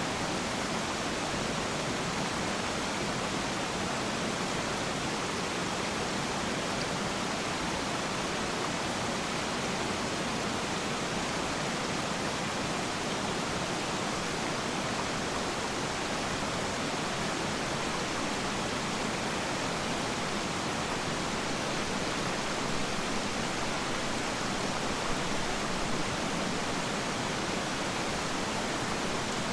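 Steady rush of falling and flowing water at Peiran Falls, an even, unbroken noise that does not change.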